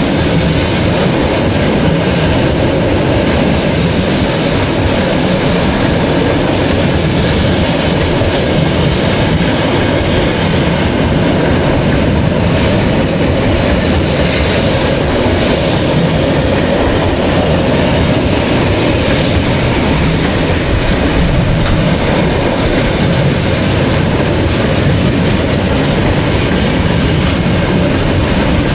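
A freight train of tank wagons rolling past, its steel wheels running on the rails in a steady, loud, unbroken noise.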